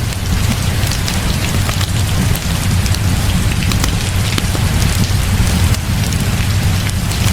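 Heavy rain falling steadily, with a constant low rumble underneath and many small sharp ticks scattered through it.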